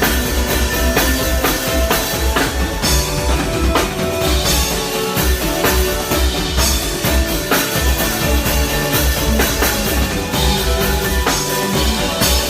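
Live band playing a song with a full drum kit keeping a steady beat under bass and other instruments.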